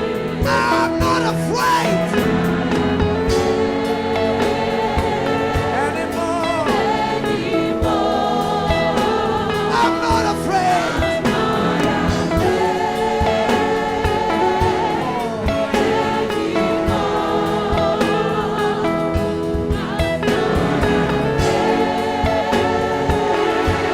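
Congregation and worship team singing a gospel song with instrumental backing and a steady beat.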